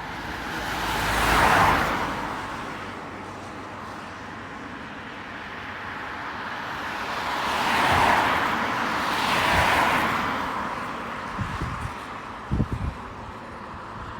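Road vehicles passing by, three in turn, each a swell of tyre and engine noise that rises and falls away. A few brief low thumps come near the end.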